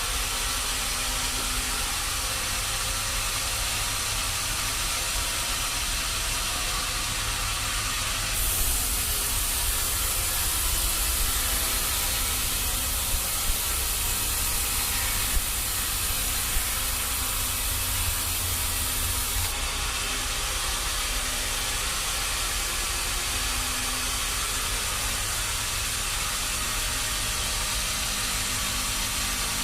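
Sawmill machinery running steadily with a low rumble and hiss. A louder, high hiss sets in about a third of the way through and stops about two-thirds in, with a few sharp clicks during it.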